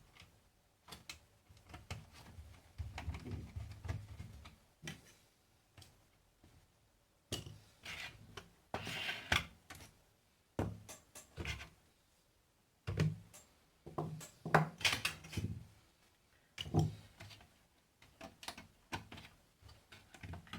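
Irregular small clicks, knocks and scrapes of hands and tools working on a satellite receiver's power-supply board and metal case.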